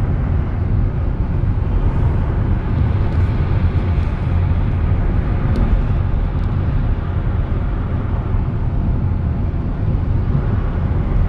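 Steady rain falling, an even hiss with a heavy low rumble underneath.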